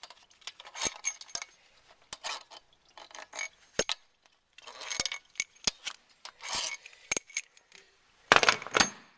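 Metal hand tools clinking, clicking and rasping against the engine in a run of short bursts, the loudest near the end, as the cylinder head bolts of a Renault Clio 1200cc engine are undone.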